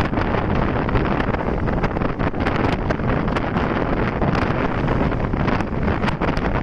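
Wind buffeting the microphone of a moving motorcycle: a steady loud rush, with motorcycle and road noise underneath.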